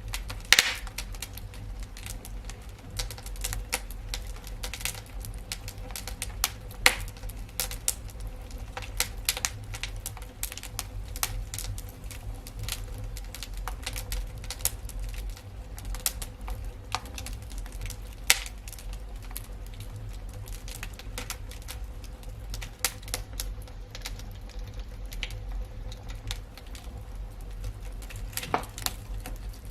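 Wood fire crackling: dense, irregular small snaps and clicks, with a few louder pops now and then, over a low rumble.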